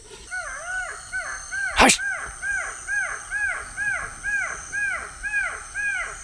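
Jackal calling a fast, regular series of yelps, about three a second, each rising then falling in pitch. A single sharp knock sounds about two seconds in.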